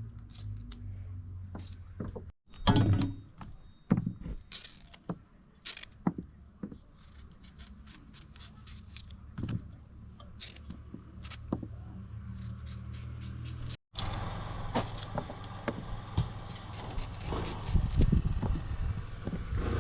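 Knife work on green bananas being slit and peeled by hand: scattered clicks, taps and scrapes over a steady low hum, broken twice by abrupt cuts.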